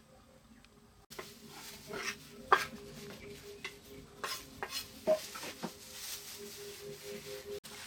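Cooking sounds: a utensil stirring and scraping in a pan with sharp clinks, over a steady sizzle, starting abruptly about a second in.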